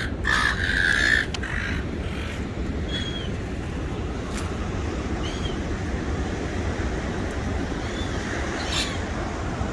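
Gull giving a loud, harsh call for about the first second, then a few short, faint high squeaks spaced a couple of seconds apart over a steady low rumble.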